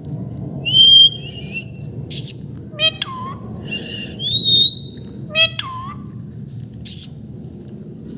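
Parrot calling in a string of short separate calls. Two clear whistled notes come at about 1 s and 4.5 s, sharp squawks at about 2 s and 7 s, and two harsh calls that drop steeply in pitch at about 3 s and 5.5 s.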